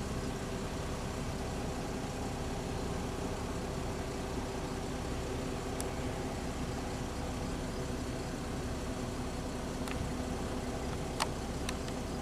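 Robinson R44 helicopter running steadily, an even engine-and-rotor hum with a few short clicks near the end.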